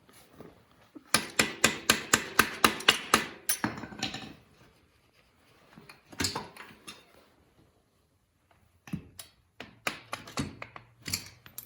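Metal tools working the top shock bolt of a dirt bike's rear shock: a quick run of about a dozen ringing metal knocks, about six a second, then a short cluster of knocks and, near the end, scattered lighter knocks and clicks as the bolt and shock come free.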